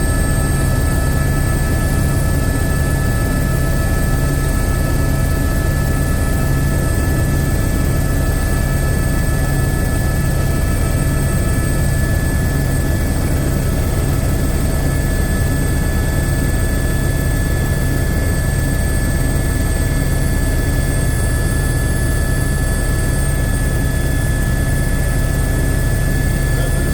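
Eurocopter AS350 B2 AStar single-engine helicopter in cruise flight: a loud, unchanging drone of rotor and turboshaft engine, with steady high whining tones over a low rumble.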